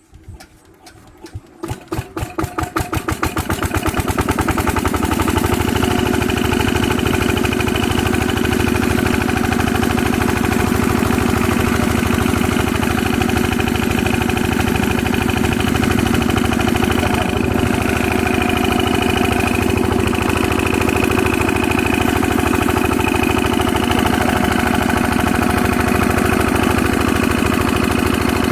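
Diesel engine of a water pump starting up. Its separate firing strokes come faster and louder over the first few seconds, then it settles into a steady, even run.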